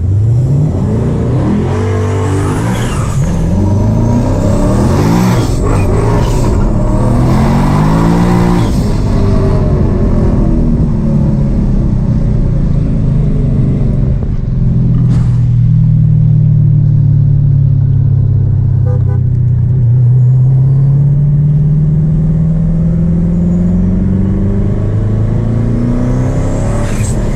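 Twin-turbo Dodge Challenger Hellcat's V8 accelerating hard through several quick gear changes with a manual transmission, its pitch climbing and dropping repeatedly in the first nine seconds. It then settles into a long steady pull, the engine note rising slowly, with a high turbo whistle near the start and again near the end.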